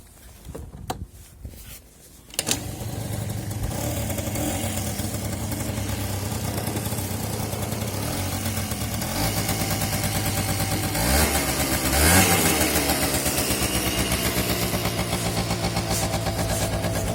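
Honda Giorno 49cc moped engine starting about two and a half seconds in, then idling steadily on test. About twelve seconds in it is revved briefly, the pitch rising and falling back to idle.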